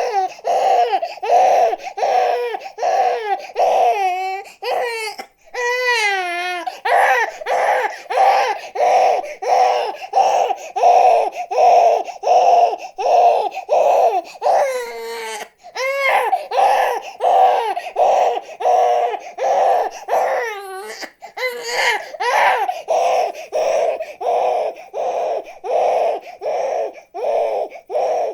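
Infant crying in rapid, rhythmic short sobs, about three a second, broken now and then by longer falling wails.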